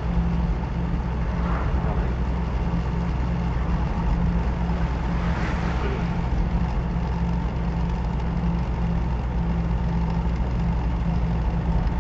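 Manual car's engine running steadily at low revs, a continuous low hum.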